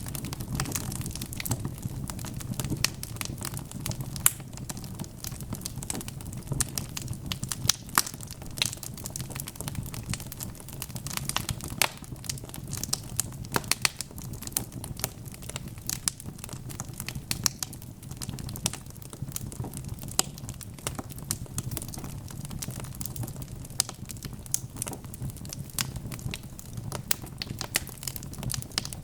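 Wood fire crackling: irregular sharp pops and snaps over a steady low hiss and rumble of the burning fire.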